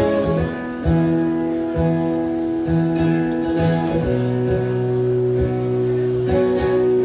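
Band playing an instrumental passage led by guitar, with held chords changing about once a second over a steady beat.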